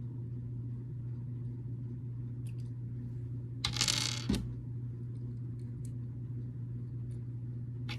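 Small plastic building bricks handled on a table: scattered light clicks, with a louder rustle about halfway through that ends in a sharp click. A steady low hum runs underneath.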